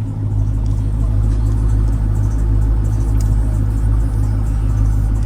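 A Jeep Grand Cherokee Trackhawk's supercharged V8 running at a steady speed while driving, a constant low drone with no revving.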